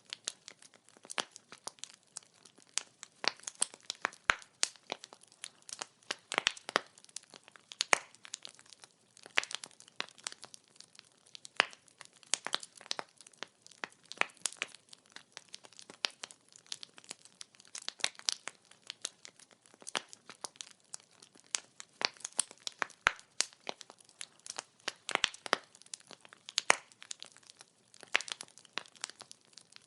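Wood fire burning with constant irregular crackling and popping of burning logs, several sharp pops a second over a soft hiss.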